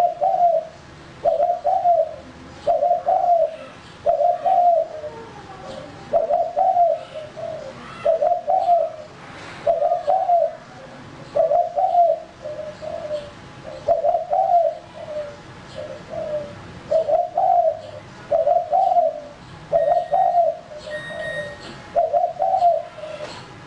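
Male spotted dove (tekukur) cooing over and over, a short low coo phrase repeated about every one and a half seconds: the male's call used to lure other tekukur.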